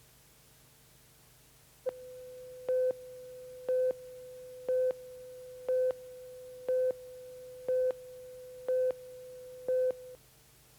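An electronic tone runs steadily for about eight seconds, with a louder beep about once a second, eight beeps in all, then cuts off suddenly.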